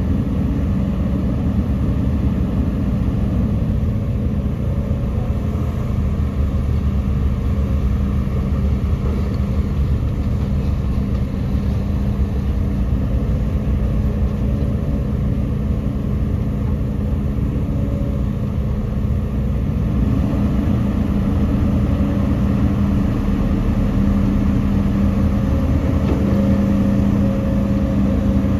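Heavy diesel engine of earthmoving machinery running steadily under load, with a low hum, growing louder about two-thirds of the way through.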